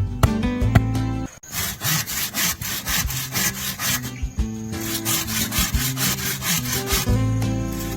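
Hand saw cutting wood in rapid, even back-and-forth strokes, starting about a second and a half in.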